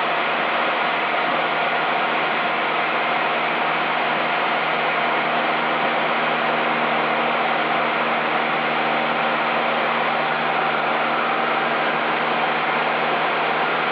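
Cessna 172's engine and propeller drone, steady and unchanging at cruise power during a steep turn, heard through the cockpit intercom with its low and high ends cut off.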